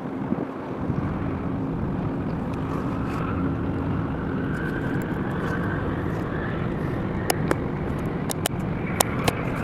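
Steady engine rumble with wind on the microphone, a tone rising slowly through the middle, and half a dozen sharp clicks near the end.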